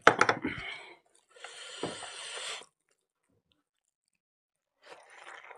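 Close-miked mouth sounds of a person chewing a mouthful of buffalo innards curry and rice: a loud burst of wet smacks and clicks in the first second, then a longer hissing stretch at about two seconds, then a pause.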